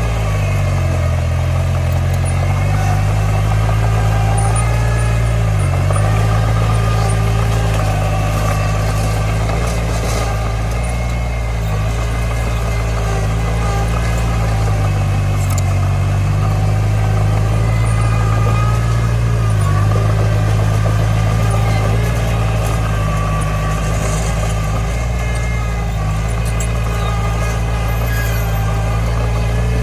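Komatsu D20 bulldozer's diesel engine running steadily, its pitch dipping briefly several times.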